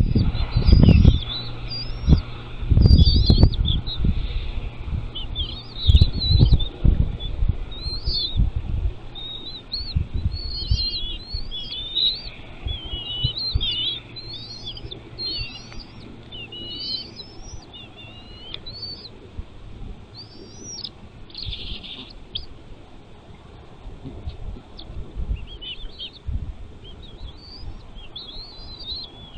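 Bald eagle giving high, thin, chittering calls, a run of short rising and falling chirps repeated throughout. Loud low thumps and rumble over the first nine seconds or so.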